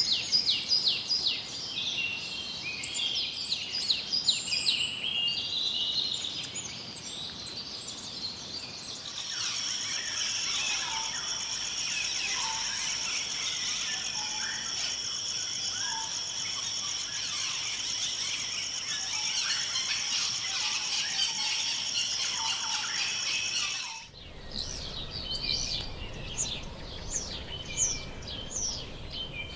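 Forest birds singing and calling. About a third of the way in a steady, high insect drone sets in, with bird calls under it, and it cuts off suddenly near the end, leaving the birdsong again.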